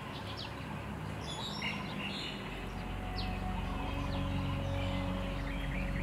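Wild birds chirping and calling in short, high notes. About halfway through, a low steady hum comes in beneath them.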